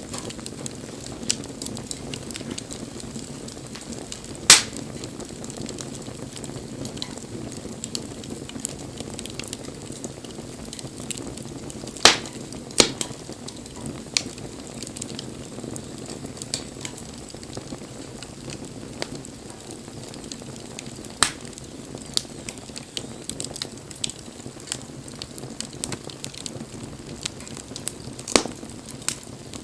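Wood bonfire burning with a steady low rush of flame, broken by scattered sharp crackles and pops, a few of them loud.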